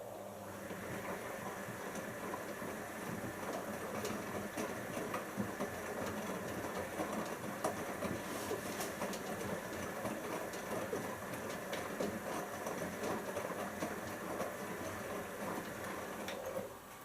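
Siemens iQ front-loading washing machine turning its drum during the first rinse: the motor hums steadily under the splash and slosh of wet laundry and water. It runs for about seventeen seconds, then stops suddenly near the end.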